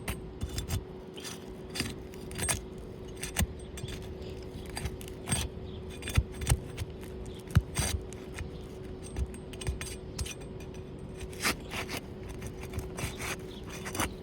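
A metal tool scraping and clicking against an asphalt shingle as it is pried loose from its seal, in short, irregular scrapes and clicks, over a faint steady hum. The shingle is brittle and tears easily as it is unsealed, a sign the roof cannot be repaired.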